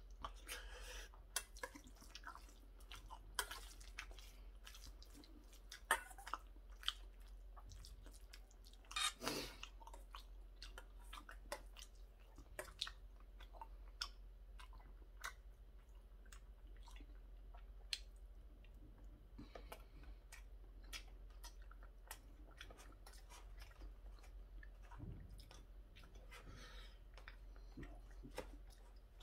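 A person chewing mouthfuls of curry rice, with scattered clicks of a metal spoon against a stainless steel bowl.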